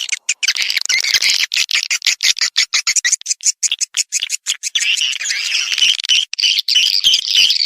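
Swiftlet call recording: a dense flock chorus of rapid, high chirps and twittering clicks that never pauses. This is the kind of lure sound played to call swiftlets into nesting houses.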